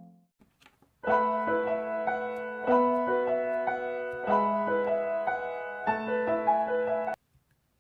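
Instrumental piano music: a slow melody over held chords, starting about a second in and cutting off abruptly near the end.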